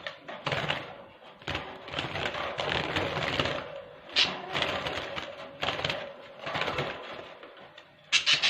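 Budgerigars chattering with harsh squawks, over rustling and clattering as the birds are handled in their cage. A cluster of sharp squawks comes near the end.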